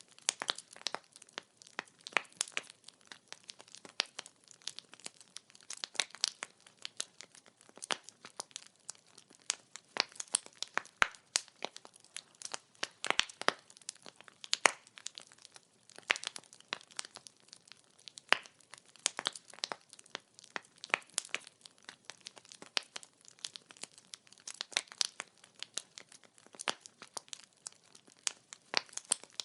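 Wood fire crackling: burning firewood giving off frequent irregular sharp pops and snaps over a quiet background.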